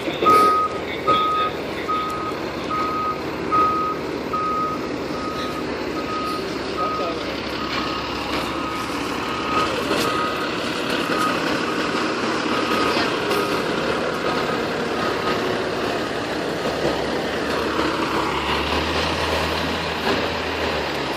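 Fire engine's back-up alarm beeping evenly, a little more than once a second, over its idling engine as it reverses. The beeping stops a few seconds past the midpoint while the engine keeps running.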